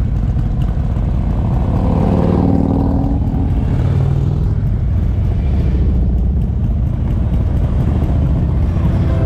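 Harley-Davidson motorcycle engine running on the road over a steady low rumble, its note rising about two to three seconds in.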